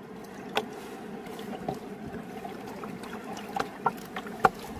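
River water sloshing and swirling steadily, as someone wades through it, with about five short sharp clicks or knocks scattered through.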